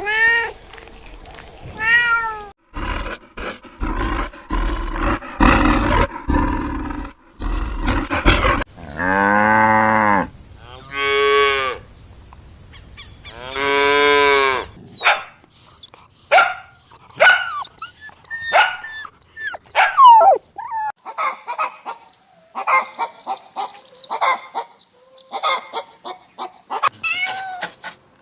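A run of animal calls: a couple of short meows at the start, then three long drawn-out lowing moos from cattle in the middle, then a stretch of many short, quick high calls.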